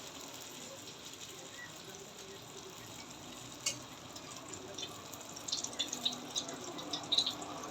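Banana turon frying in hot oil: a steady sizzle with a single sharp pop a little past the middle and a run of scattered crackles in the second half.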